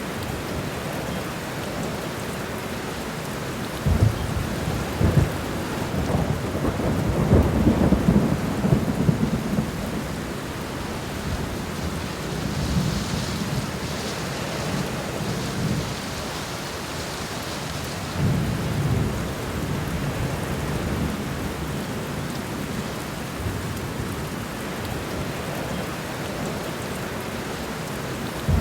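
Steady rain falling on the ground, with low rolling rumbles of thunder, the longest from about four to ten seconds in and another around eighteen seconds.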